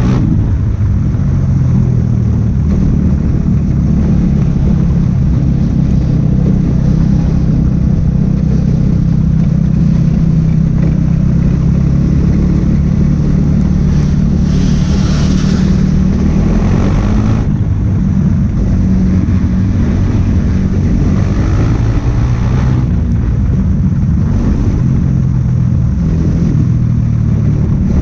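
Race car engine running hard under racing load, a steady loud drone that wavers slightly in pitch, with bursts of hiss a little past halfway and again later.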